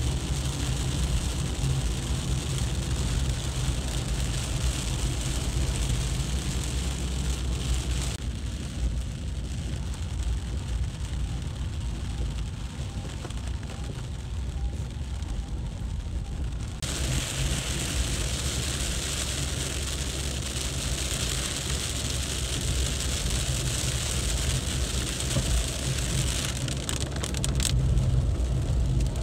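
Heavy rain with cars driving on the wet road: a steady hiss of rain and tyre spray over a low engine and road rumble. The high hiss fades for several seconds in the middle, then comes back.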